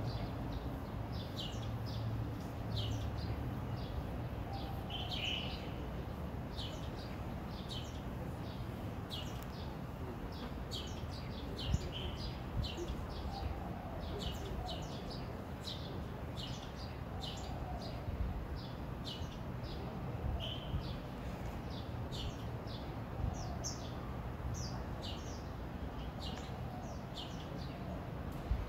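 Small birds chirping: short, high, downward-sliding chirps, two or three a second, over a steady low background rumble. An occasional brief knock stands out now and then.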